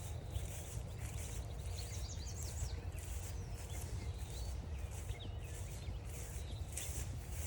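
Footsteps crunching along a woodland trail in a steady walking rhythm, with several short bird chirps and trills over a low outdoor rumble.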